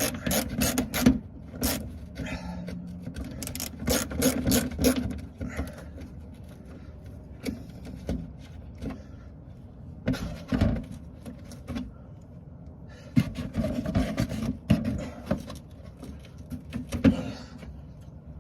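Hand tools working on a 7mm bolt in a tight spot: a ratchet on an extension clicking in short runs, with sharp knocks of metal tools in irregular clusters. The loudest knock comes about ten seconds in.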